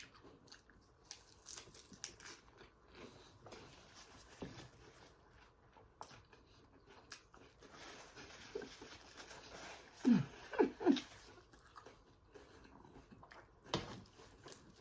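Close-miked chewing and crunching of salad leaves, with wet mouth clicks and smacks. About ten seconds in come three short falling hums, the loudest sounds.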